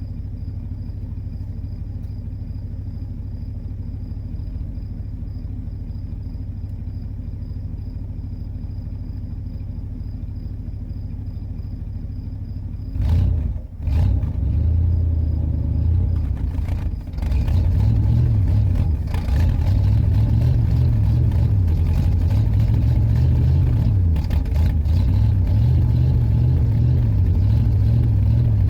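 Car engine running with a steady low rumble. About thirteen seconds in it turns louder and uneven, its low note rising and falling as if revved.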